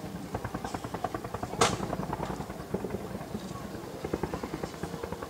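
Fireworks going off in rapid succession, a fast string of pops and crackles, with one much louder bang about a second and a half in.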